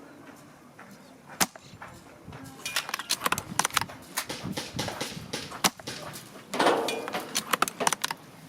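VSR-ONE airsoft bolt-action spring rifle being fired and cycled: a single sharp clack about a second and a half in, then an irregular run of clicks and clacks.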